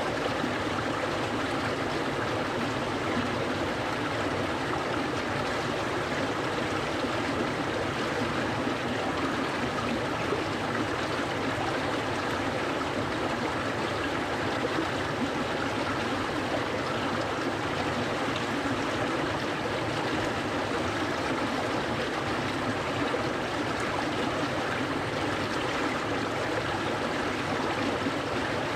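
Clear stream water flowing and rushing steadily, with a constant even rush and no breaks.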